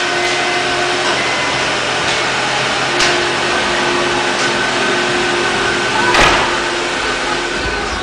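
Car engine idling steadily in a garage, with a short sharp knock about three seconds in and a louder thump about six seconds in.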